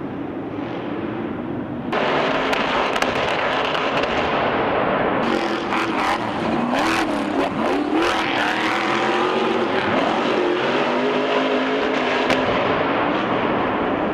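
Stadium Super Trucks' engines running hard on track, revving up and down as they accelerate and lift, with a sudden jump in loudness about two seconds in and a few sharp knocks midway.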